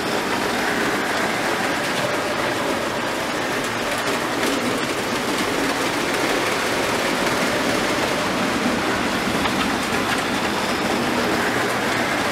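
Train cars rolling past at close range: a steady rumble of wheels on rail with scattered clicks and a faint high ringing that comes and goes.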